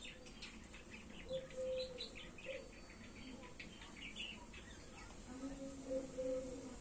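Small birds chirping in quick short notes, with two faint drawn-out low calls, one between one and two seconds in and one near the end.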